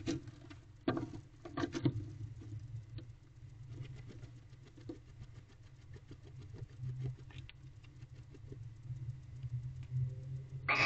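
Barn owl moving about inside a wooden nest box: light scratching and tapping, with a few short hissy rustles about a second in and near the end, over a steady low hum.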